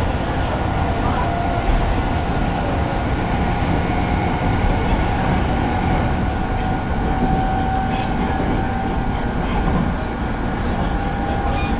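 Electric commuter train running at speed, heard from inside the passenger car: a steady rumble of wheels on rail with a faint steady whine over it.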